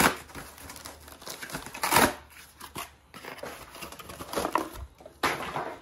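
Plastic and paper packing crinkling and rustling as it is pulled open, with several louder bursts of tearing and crumpling.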